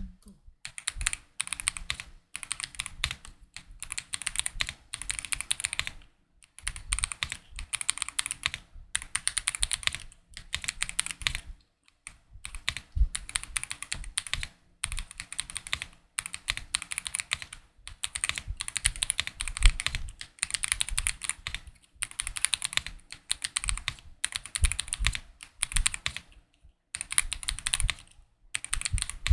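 GMK67 gasket-mounted mechanical keyboard with Akko Cream Blue Pro V3 tactile switches and Cherry-profile keycaps being typed on: fast runs of keystrokes broken by short pauses every second or two.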